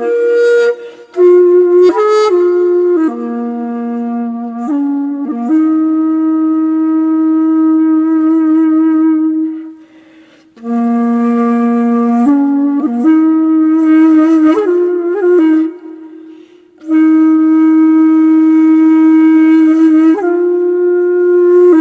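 Background music: a solo flute-like wind instrument playing a slow melody of long held notes with vibrato, breaking off briefly twice.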